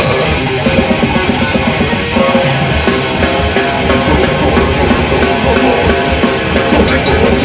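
Heavy metal band playing live at full volume: distorted electric guitars over fast, dense drumming.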